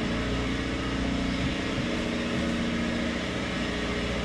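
Box truck's engine idling steadily while the truck is maneuvered slowly.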